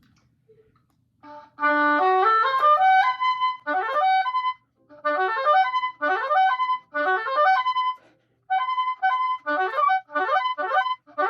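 Oboe playing a fast passage of quick notes, starting with a rising run about a second and a half in and then repeating short phrases with brief pauses between them: a technical passage being drilled over and over.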